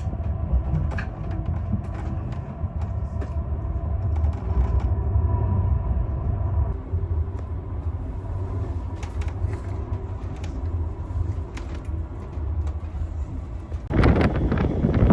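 Train running on the rails: a steady low rumble with scattered light clicks and a faint thin tone. Near the end a loud rushing noise, like wind on the microphone, starts suddenly.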